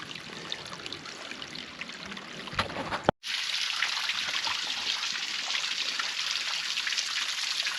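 Small creek trickling and running over rocks. About three seconds in the sound drops out for a moment and comes back as a louder, steadier rush of water.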